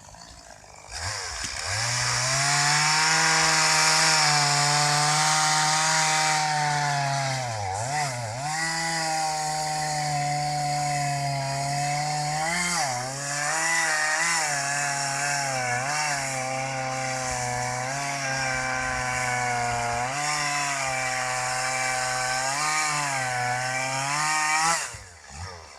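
Two-stroke chainsaw running at high revs while cutting wood. The engine note sags briefly several times as the chain bites into the wood. The saw comes up to speed about a second in and is shut off near the end.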